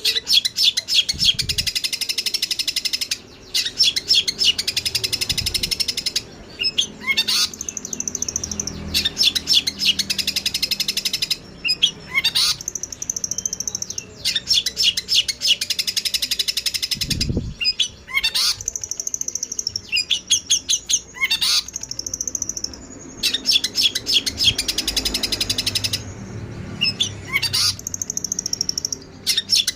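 Eurasian tree sparrows (burung gereja) chattering excitedly as in a fight, rapid high chirps strung into long fast runs broken by short pauses every few seconds.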